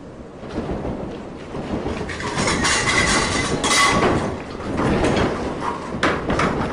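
A test building shaken on a shake table to simulate a large earthquake: dense rattling, knocking and clattering of the structure and its contents, loudest in the middle seconds, with brief squeals.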